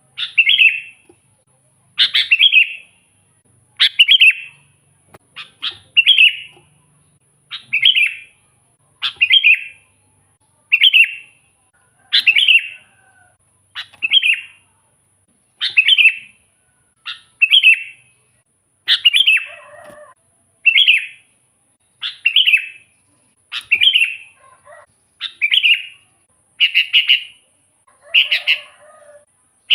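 Sooty-headed bulbul (kutilang) singing, repeating a short, loud phrase about every second and a half to two seconds.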